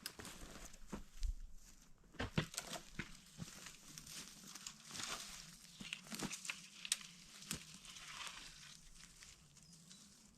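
Irregular crunching and rustling with scattered sharp snaps, from someone moving about and handling brush while building a winter shelter.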